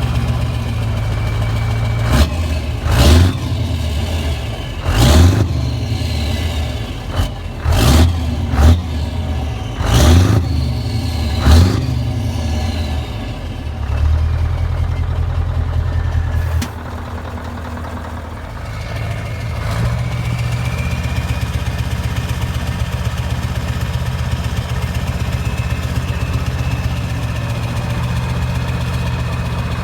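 A big truck's diesel engine idling, blipped in a series of about seven short revs over the first dozen seconds, then settling back to a steady idle.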